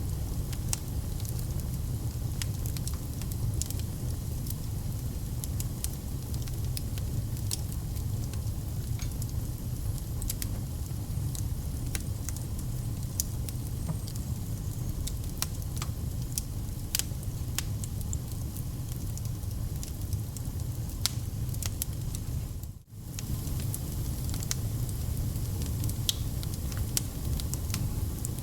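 Wood fire burning in a fireplace: a steady low rumble of flames with scattered sharp crackles and pops, briefly cutting out about three-quarters of the way through.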